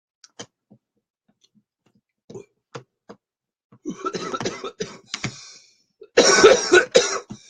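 A man coughing hard after inhaling cannabis smoke, a few faint clicks first, then a rough breathy cough about halfway through and a loud fit of coughing near the end.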